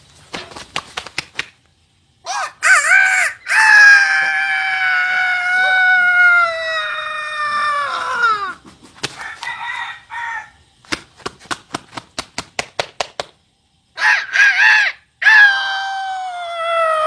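Rooster crowing twice, each crow opened by a few short calls and then drawn out into one long call, the first lasting about five seconds and sagging in pitch at the end. Between the two crows comes a quick run of short sharp clicks.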